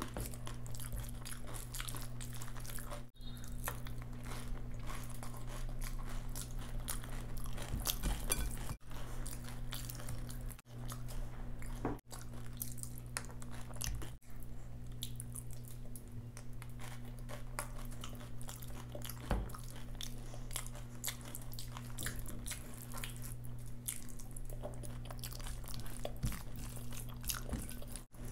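Close-miked eating of curd rice by hand: wet chewing and smacking with many small clicks, and the squelch of fingers mixing soft rice, over a steady low hum.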